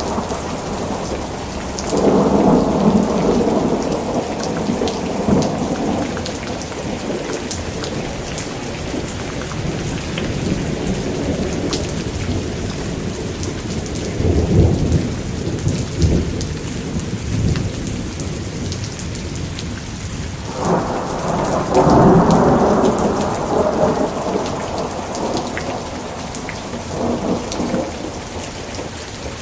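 Steady rain falling, with three rolls of thunder: one about two seconds in, a deeper one near the middle, and a longer one starting about two-thirds of the way through.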